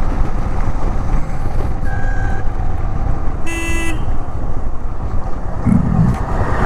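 Motorcycle under way, with a steady engine and road rumble. A vehicle horn honks once, briefly, about three and a half seconds in, and a fainter short beep sounds about two seconds in.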